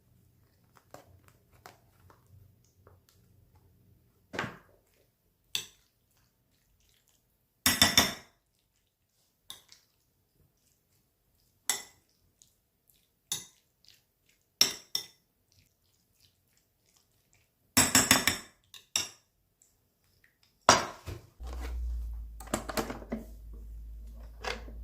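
Dishes and cutlery being handled in a kitchen: scattered clinks and knocks, with two longer clattering bursts about a third of the way in and again past the middle. A low steady hum starts near the end.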